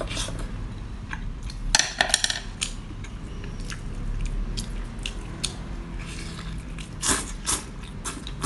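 A person biting and chewing spicy seafood close to the microphone, with a run of wet clicks and a few louder crunchy bursts about two seconds in and again about seven seconds in.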